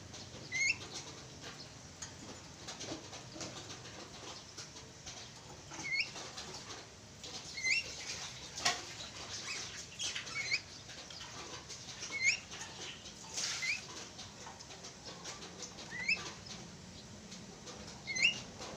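Javan mynas giving short, sharply rising whistled calls, one every couple of seconds, with scratchy clicks and rustles of movement and wing flaps between them.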